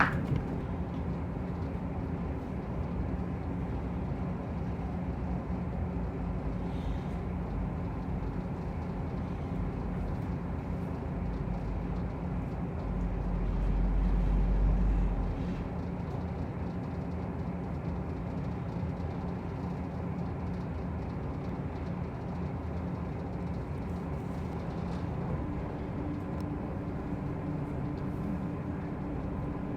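Running noise of a diesel railcar: a steady engine drone with rail and wheel noise. A deeper rumble swells for a few seconds about halfway through, then settles back.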